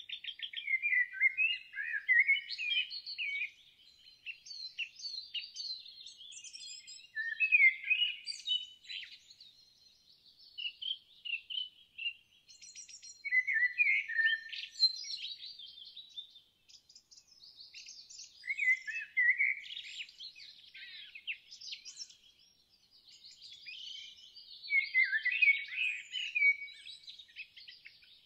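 Songbirds singing: quick chirping and warbling phrases that come in bursts every few seconds, with a rapid trill about halfway through.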